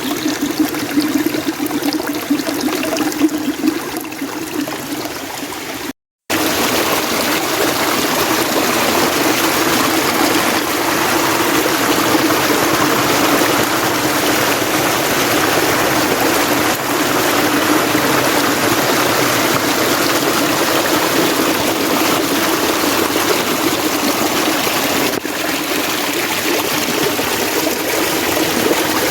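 Mountain stream rushing and splashing over rocks, a steady flow of water. It cuts out for a split second about six seconds in, then carries on a little louder.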